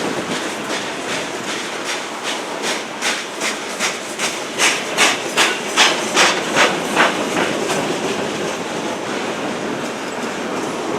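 Freight train rolling past with steady rolling noise. Its wheels clack over the rail joints, about two to three clacks a second, loudest about halfway through and then fading.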